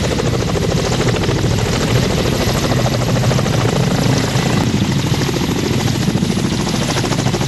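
Helicopter running on the ground during a test run, with steady, fast rotor-blade chop and turbine noise and a steady high whine.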